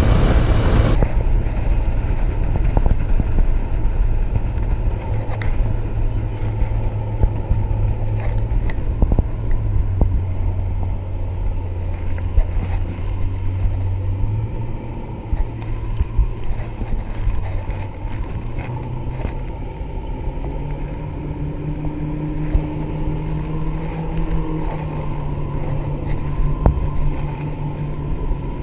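Outboard motor of a Mako 19 Pro Skiff running under way. Its note steps up in pitch about halfway through and again about two-thirds of the way in as the throttle is opened.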